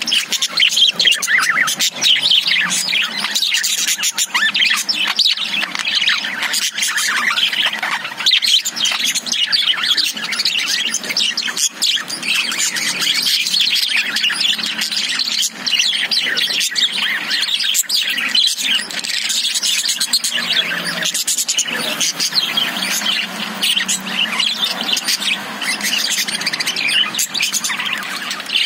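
A flock of caged budgerigars (budgies) chirping and chattering without a break, many high calls overlapping.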